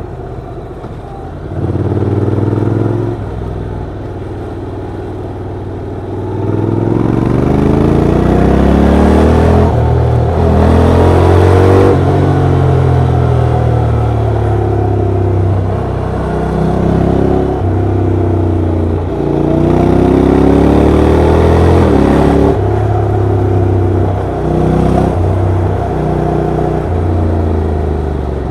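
Honda NC750X DCT motorcycle's parallel-twin engine and exhaust on the move, the pitch climbing under throttle and dropping back in steps at each gear change, several times over.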